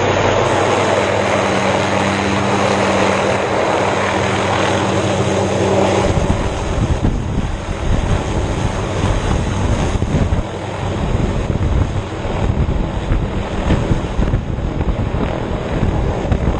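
Helicopter running close by: a loud, steady rotor-and-engine drone that turns rougher and gustier about six seconds in.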